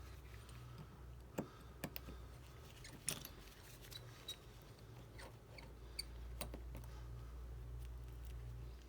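Faint, irregular small clicks and ticks of a precision screwdriver and tiny screws being worked out of the iPad's LCD bracket, over a low steady hum.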